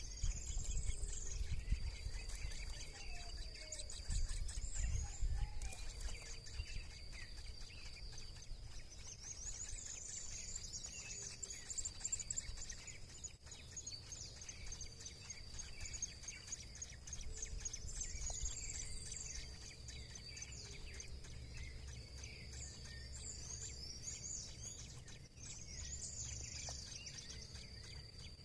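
High bird chirps and short calls come in several separate bouts, over a steady high-pitched insect drone and a low rumble.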